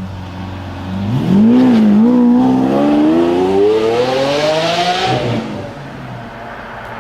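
Lamborghini Aventador's 6.5-litre V12 on its stock exhaust, running low, then given a quick blip about a second in and revved up with the pitch climbing steadily for about three seconds before it drops back about five seconds in.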